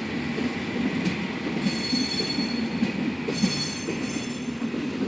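Passenger train rolling slowly over a steady low rumble, its wheels squealing on the rails twice, each time for under a second.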